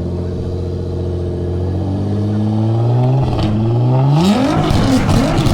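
Car engine and exhaust accelerating hard: the engine pitch climbs slowly, dips briefly about three seconds in, then climbs steeply, turning into a loud, harsh exhaust rasp with crackles near the end.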